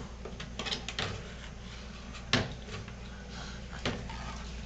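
Bottles knocking and rattling in a refrigerator door bin as a small child pulls one out: a few light knocks, the sharpest about two and a half seconds in.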